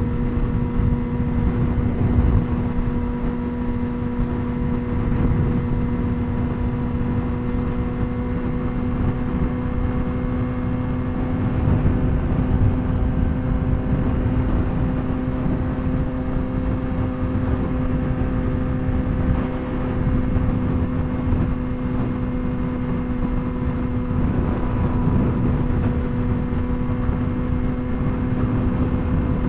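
2007 Suzuki GSX-R600's inline-four, straight-piped, holding a steady even note at constant cruising speed, with wind buffeting the helmet-mounted microphone underneath.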